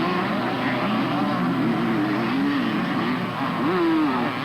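Several two-stroke motocross bikes racing, their engines overlapping as they rev up and down; one bike revs up and back off loudly near the end.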